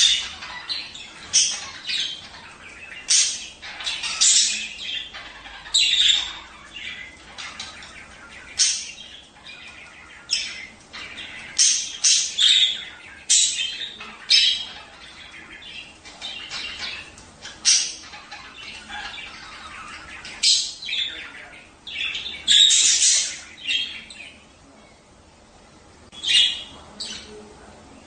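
Several budgerigars chirping, chattering and squawking in quick, irregular bursts. The calls thin out to a few short chirps in the last few seconds.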